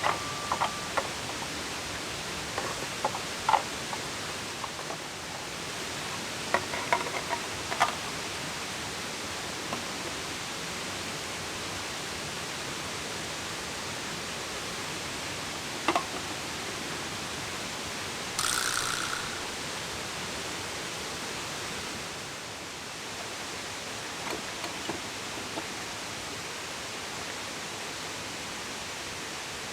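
Steady rushing hiss of water outdoors, with a few scattered light clicks and knocks and one brief louder rush about two-thirds of the way through.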